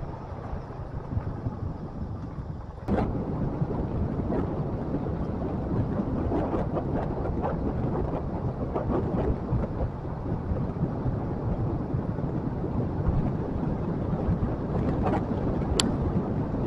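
Motorcycle riding noise: low rumble of wind buffeting the microphone mixed with engine and road noise. It gets louder about three seconds in, with scattered small knocks.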